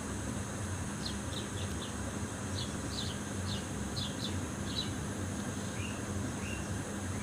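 A small bird chirping: about a dozen short, high, quick notes in the first five seconds, then two slightly lower chirps, over a steady low hum and hiss.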